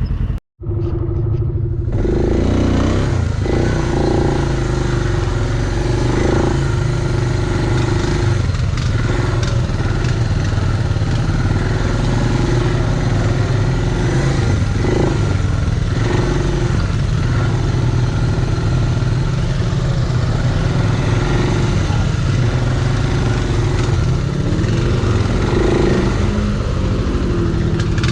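An off-road vehicle engine running and revving under load, its pitch rising and falling. It drops out to near silence for a moment near the start.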